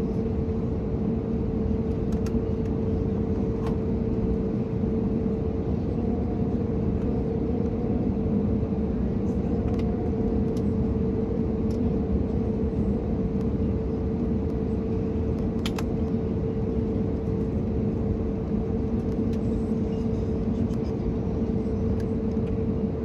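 Steady in-flight cabin noise of an Airbus A321neo: an even rush of airflow and engine noise with a constant hum from its CFM LEAP-1A turbofans, and a few faint ticks.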